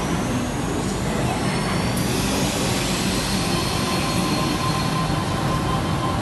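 Electric suburban train running through an underground platform, a steady rumble with high, thin wheel squeal gliding in pitch during the first couple of seconds.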